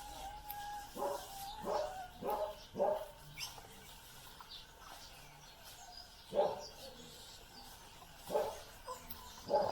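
A dog barking in short bursts, about seven barks with a pause in the middle, while small birds chirp faintly.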